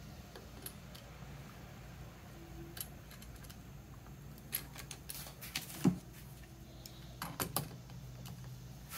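Scattered light metallic clicks and taps of a metal cable clamp connector being handled and set into a hole in a wooden box, with one louder knock about six seconds in.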